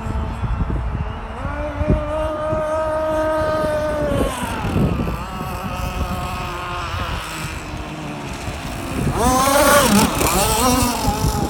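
A racing boat's engine runs at high revs, a high pitched note that holds for a couple of seconds and then drops away about four seconds in. It rises and wavers again near the end, over a steady rumble of water and wind noise.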